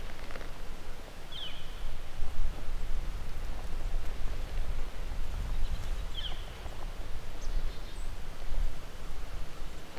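Wind buffeting the microphone with rustling, and two short high bird chirps, one about a second and a half in and another around six seconds.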